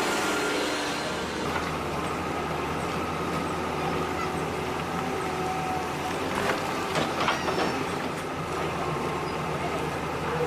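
Small electric motors and gearing of radio-controlled model construction machines running steadily with a low hum, with a few sharp clanks about six to seven seconds in.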